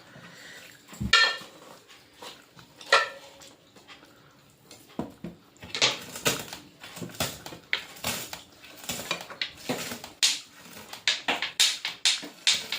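Plates, bowls and utensils clinking and scraping while a meal is eaten: a couple of separate knocks in the first few seconds, then a quick, uneven run of short clinks from about halfway on.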